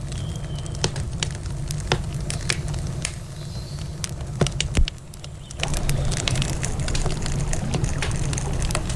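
Wood campfire crackling with frequent sharp pops and snaps, over a steady low rush of river water. The rush grows fuller about five and a half seconds in.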